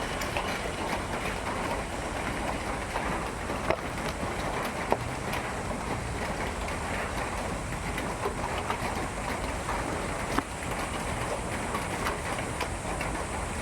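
Rain falling steadily, with scattered sharp clicks of drops hitting a surface.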